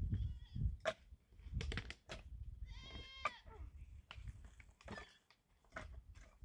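A goat bleating: one wavering call about three seconds in, with a fainter call near the start. Scattered light knocks and clatter are heard around it.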